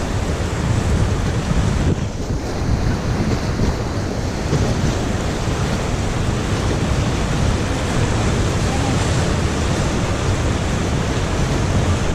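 Steady rush of river water mixed with wind noise on the microphone, an even, deep noise.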